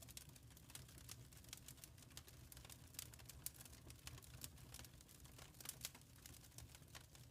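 Wood fire in a fireplace crackling quietly, with many small irregular pops and snaps over a steady low rumble.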